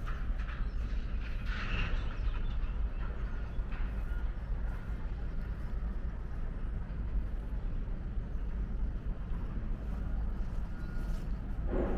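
Outdoor background: a steady low rumble throughout, with faint scattered ticks and a brief higher sound about two seconds in.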